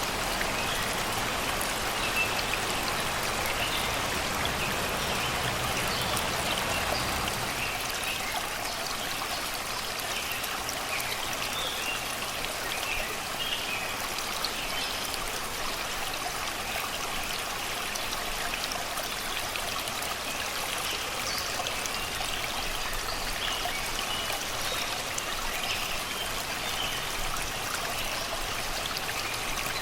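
Shallow river of spring water rushing and babbling over and around rocks, a steady even flow, with forest birds singing in short, scattered chirps over it.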